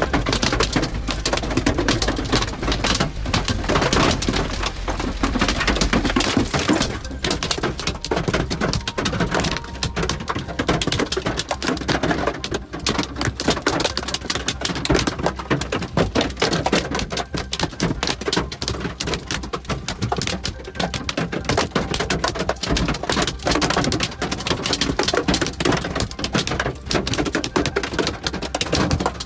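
Hailstones pelting down in a hail storm: a loud, dense, irregular clatter of impacts that keeps up without a break.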